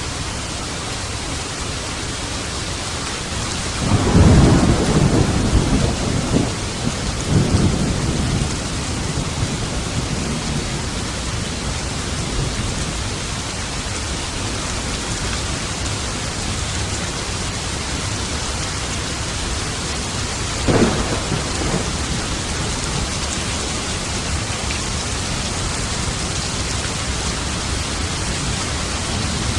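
Steady rain with a low rumble of thunder about four seconds in that swells twice over several seconds, then a shorter, sharper roll of thunder about two-thirds of the way through.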